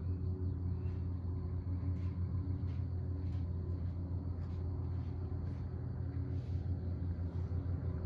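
Steady low rumbling hum, with faint short high ticks repeating about twice a second.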